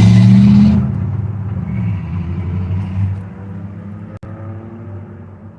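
Car engine accelerating, starting with a loud, sudden rush of noise that lasts under a second, then an engine note that climbs slowly in pitch and fades after about four seconds.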